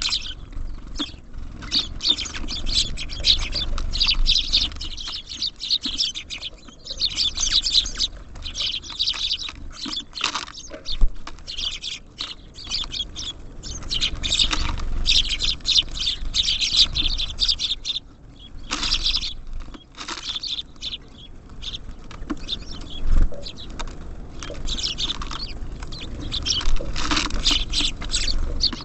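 Small songbirds chirping and twittering busily at a bird feeder, with many short clicks and taps mixed in. The chirping thins out briefly about two-thirds of the way through.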